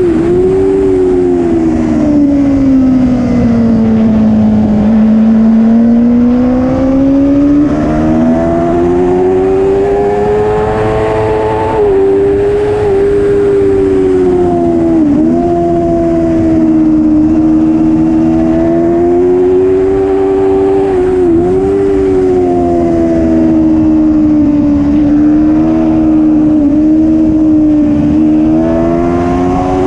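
Superbike racing motorcycle engine running hard, its pitch sinking over the first few seconds and climbing back, then staying high with a few brief sharp dips in pitch.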